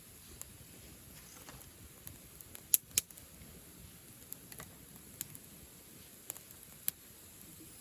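Wood bonfire crackling: scattered sharp pops and snaps over a faint steady hiss, with two louder pops close together a little under three seconds in.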